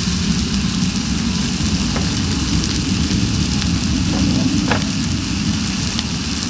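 Wood fire crackling and hissing over a steady low rumble.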